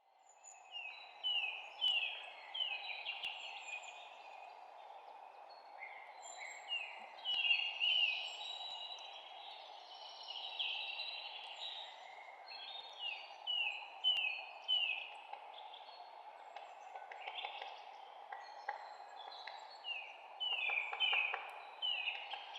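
Songbirds chirping in quick series of short, downward-sliding notes, over a steady low hiss of background noise. The sound fades in from silence at the very start.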